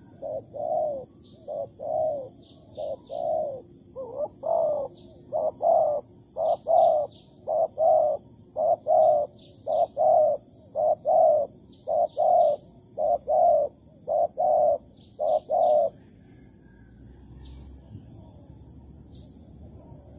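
Spotted dove cooing over and over in quick repeated phrases, stopping about three-quarters of the way through. Faint chirps from small birds sound above it.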